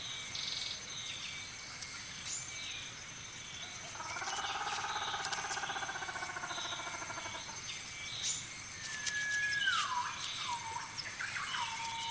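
Natural forest sound: a steady high insect trill under scattered bird chirps. About four seconds in comes a longer, buzzy call lasting some three seconds, and near the end a whistled note that slides down and holds.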